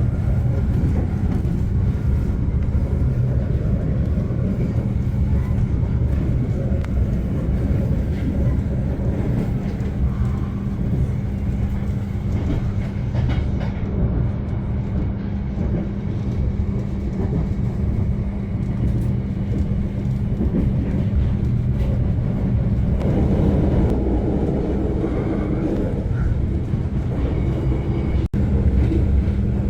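Passenger train running, a steady rumble of wheels and carriage with a constant low hum, heard from inside the carriage. The sound cuts out for an instant near the end.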